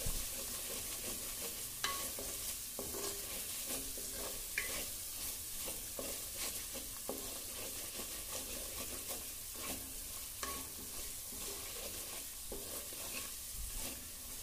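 Spice paste frying in oil in a clay pot, sizzling steadily, while a wooden spatula keeps stirring it and scrapes and knocks against the pot's bottom and sides. This is the sauté stage: the masala is kept moving so it does not stick and burn.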